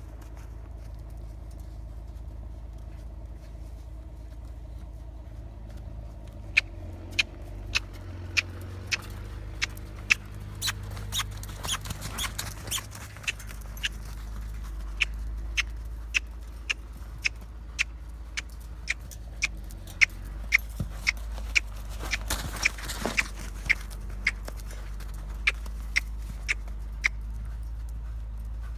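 Horse's hooves striking the ground in a steady, even rhythm of about one and a half to two sharp clops a second, starting about six seconds in, over a steady low rumble. Twice there is a brief rushing swell of noise.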